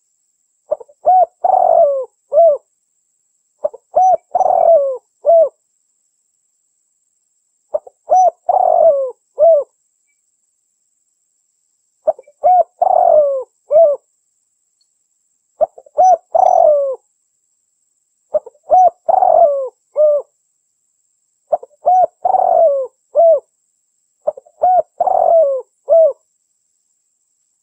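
Spotted dove (derkuku), billed as a female, cooing in repeated phrases of several notes. About eight phrases come one every three to four seconds, with silence between them.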